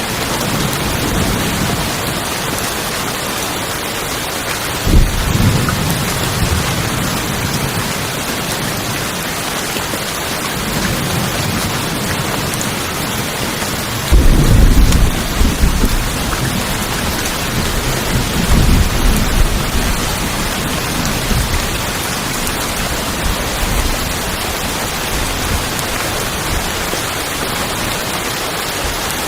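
Rain falling steadily on a tin roof, with low rolls of thunder about five seconds in and again around the middle, the loudest near halfway.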